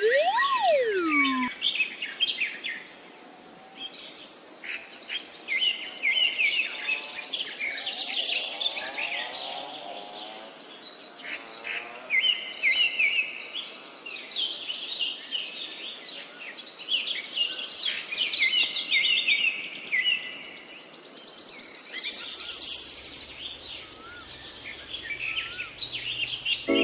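Birds chirping and singing: many short, overlapping high chirps and trills, with a single falling whistle-like glide at the very start.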